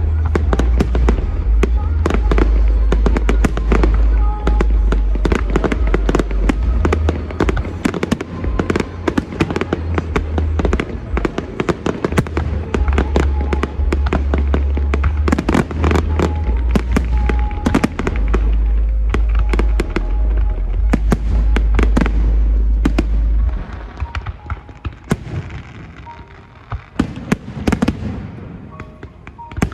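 Aerial fireworks going off in a dense barrage of rapid bangs and crackles over a heavy low rumble. About 24 seconds in, the barrage thins to scattered pops.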